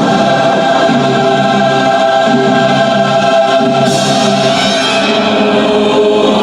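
Choral music: voices singing long held chords over a steady accompaniment.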